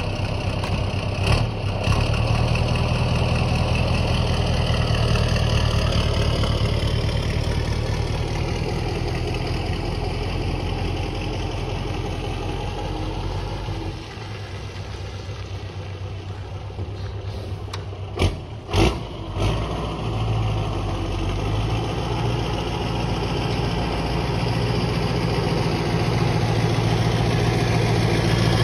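Scania R142 truck's V8 diesel engine running at idle, a steady low hum. A sharp knock comes early on and a couple more about two-thirds through. The engine sound drops off around halfway and builds again toward the end.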